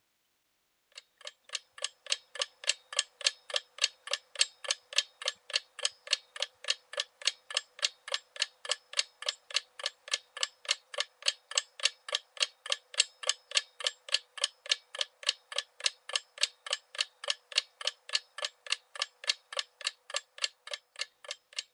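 Steady clock-like ticking, about four to five sharp ticks a second, starting about a second in and keeping an even pace.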